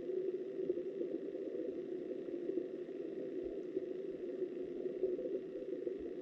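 Steady, muffled rush of flowing river water heard underwater.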